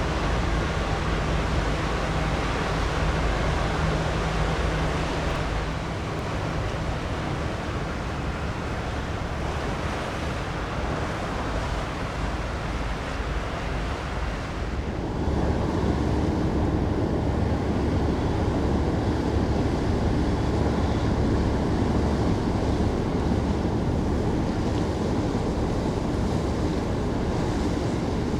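Wind buffeting the microphone over a steady low engine drone of ships on the water. About halfway through the sound changes suddenly and grows louder, with a faint steady hum added.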